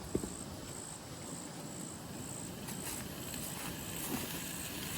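Crickets chirping in an even pulsing rhythm, about two chirps a second, over a low steady hiss of hot dogs beginning to sizzle on the camp cooker. There is a light knock right at the start.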